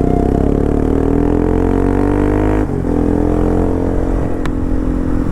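Bajaj Pulsar RS200's single-cylinder engine pulling hard through its open exhaust with the dB killer removed. Its note rises for about two and a half seconds, dips briefly at a gear change, then pulls on steadily.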